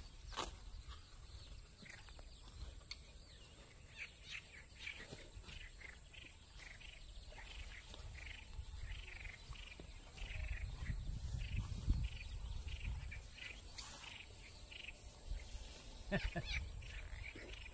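A small bird chirping over and over, short high calls about two a second, with a low rumble about two-thirds of the way through.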